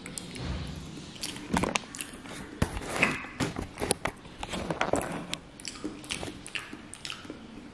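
A person chewing a mouthful of soft fried mutton brain, with many short, irregular wet clicks of the mouth and fingers.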